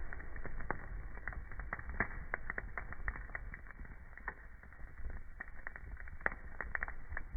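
Wood fire crackling in a fireplace: irregular snaps and pops over a low rumble of the burning logs, with a sharper pop a little over six seconds in.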